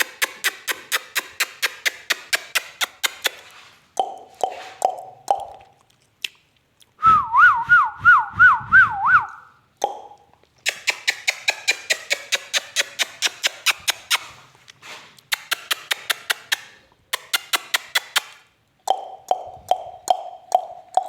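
Pet parrot making mimicked sounds: long runs of rapid popping clicks, about five a second, broken by short repeated hoots. About seven seconds in comes a loud warbling whistle that swings quickly up and down in pitch, like a car alarm.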